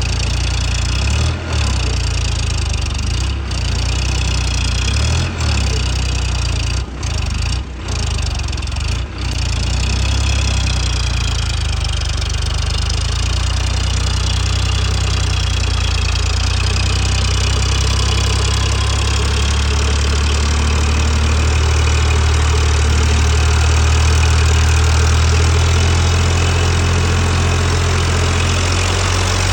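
Eicher four-wheel-drive tractor's diesel engine running under load in mud, a steady low drone that swells a little past the middle. The sound cuts out briefly about six times in the first nine seconds.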